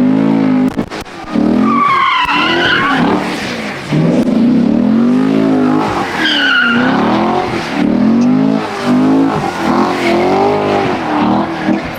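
Muscle car engine revving up and down over and over while its tyres spin on the pavement in a burnout. High tyre squeal rises about two seconds in and again about six seconds in.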